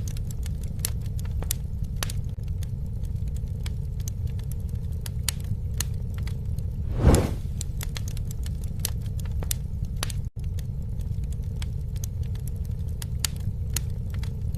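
Wood fire crackling: a steady low rumble with many small sharp pops and snaps, and one louder pop about halfway through.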